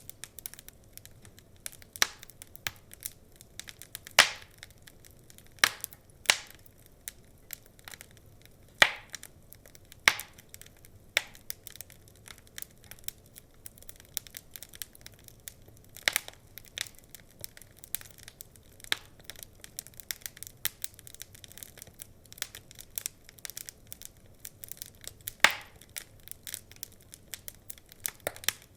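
Burning wood logs crackling steadily with many small irregular clicks, broken by louder sharp pops every few seconds.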